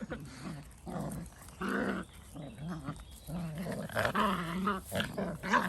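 Dalmatian puppies growling at each other in play, a run of short, wavering growls.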